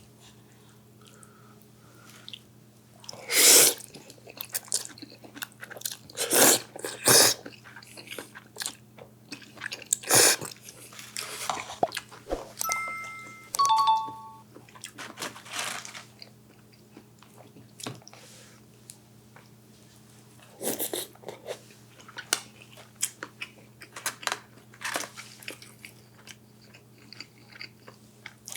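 Close-miked eating: irregular chewing and biting with crunches and several louder noisy mouth sounds, as in a mukbang. A few brief light clinks come about halfway through, over a faint steady low hum.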